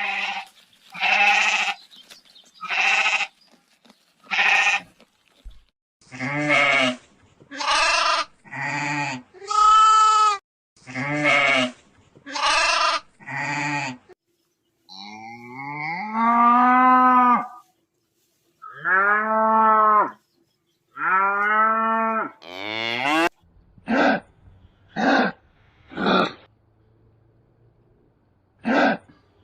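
Goats bleating over and over. The first calls are short and come about once a second; around the middle there are four longer, drawn-out bleats, and near the end a few short ones again.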